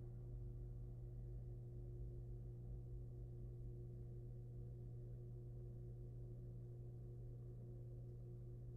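Steady low electrical hum from the nest-box camera's audio, with a few fainter steady tones above it and no distinct events.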